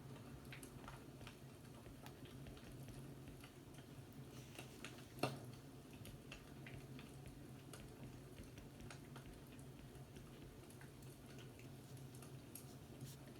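Faint fireplace crackling: irregular small pops and ticks, with one louder pop about five seconds in, over a low steady hum.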